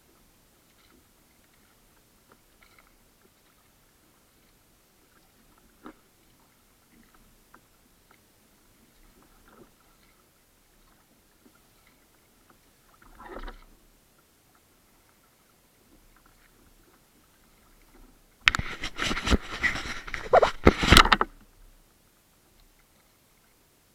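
Sea kayak on the water: faint scattered knocks and water sounds, a brief swell of noise about halfway through, then a loud burst of knocking and rubbing lasting about two and a half seconds near the end.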